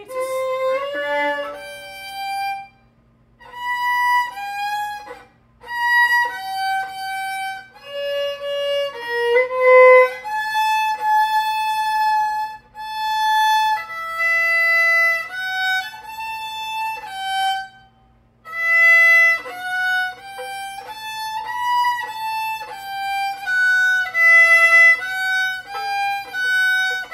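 A 3/4-size violin played with the bow: a slow melody of held and stepping notes in short phrases, with brief pauses about three, five and eighteen seconds in.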